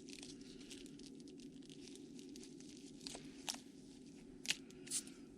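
Sealed trading-card pack wrappers faintly crinkling and rustling as a stack of packs is handled, with a few short sharp clicks in the second half.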